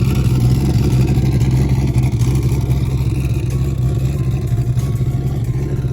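A car engine running loudly and steadily at a low idle with a fast, choppy pulse, without revving up.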